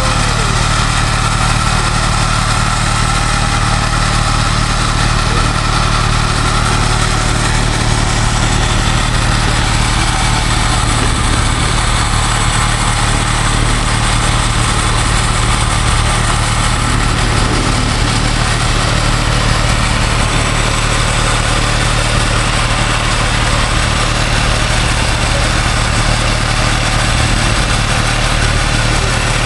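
Off-road 4x4's engine idling steadily, with no revving.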